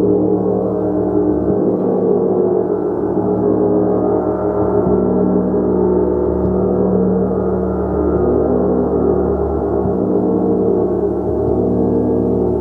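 A gong played continuously, sounding as a sustained wash of many overlapping tones that swells and eases gently without ever dying away.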